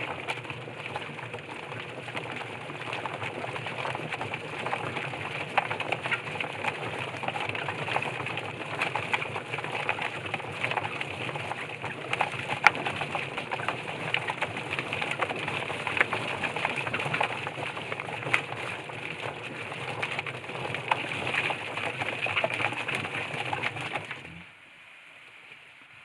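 Chicken plucker running with a scalded bird tumbling inside. Its 1-horsepower motor hums under a dense rattling clatter as the rubber fingers beat off the feathers. It cuts off suddenly about 24 seconds in.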